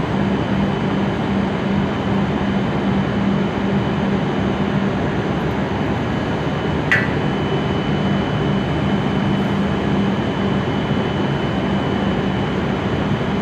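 Stopped W7-series Shinkansen train with its on-board equipment and ventilation running: a steady hiss with a low hum. A short high chirp about seven seconds in.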